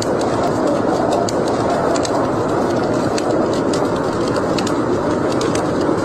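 Wood fire burning in a fireplace: a steady rushing noise with frequent sharp crackles and pops.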